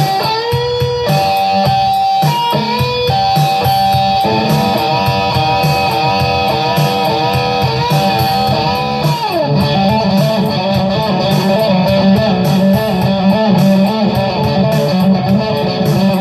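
Electric guitar playing an improvised lead: long held notes with wide vibrato, a downward slide about nine seconds in, then a run of quicker notes.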